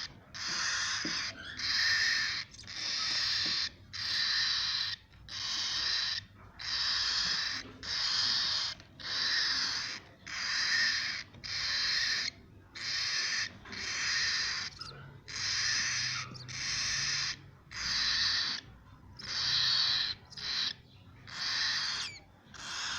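Cockatiel chicks making rasping, hiss-like calls over and over, each about a second long with short breaks between.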